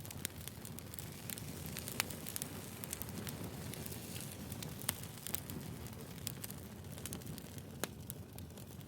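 Firewood fire crackling: a steady low rumble of burning with irregular sharp pops, the loudest about two, five and eight seconds in.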